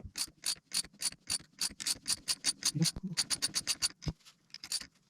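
Ratchet wrench clicking quickly and evenly as it turns, drawing a part onto the shaft of a new helical planer cutter head; the clicking pauses briefly about four seconds in.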